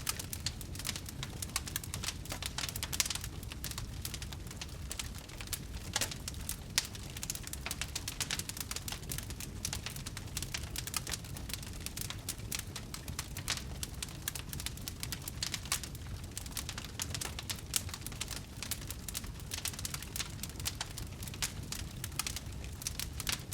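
Wood fire crackling in a fireplace: many small irregular pops and snaps over a steady low rumble of the burning.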